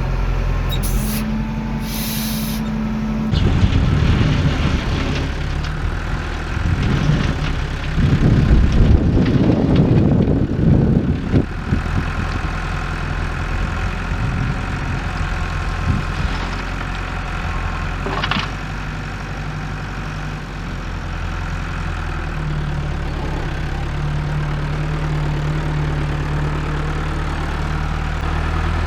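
Diesel engine of heavy machinery running steadily. About four seconds in, a louder spell of rough, rattling noise begins and lasts until about twelve seconds in.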